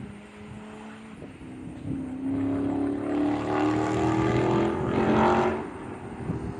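Dodge Charger Scat Pack's V8 with the mufflers deleted, accelerating. Its exhaust comes in about two seconds in and climbs steadily in pitch for some three seconds, then drops away near the end.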